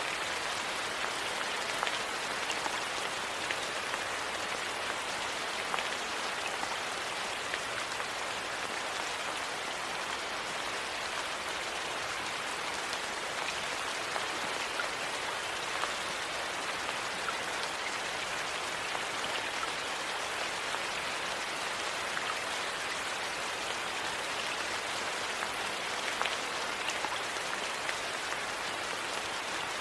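Steady rain falling, an even hiss, with a few faint sharp crackles from a wood fire scattered through it.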